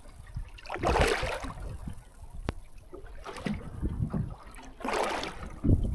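Water sloshing and splashing against a small boat's hull in three short surges, with a single sharp click about halfway.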